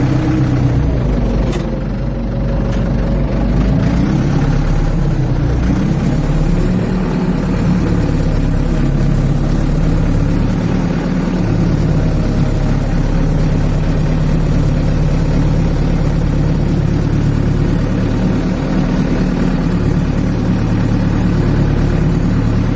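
Ford 755 backhoe engine running. Its pitch shifts up and down in the first few seconds, then settles into a steady run.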